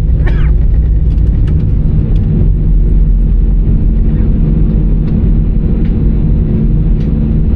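Steady low rumble heard inside the cabin of an Airbus A319 rolling on the ground just after landing: engines and wheels on the pavement. There is a brief higher-pitched sound near the start.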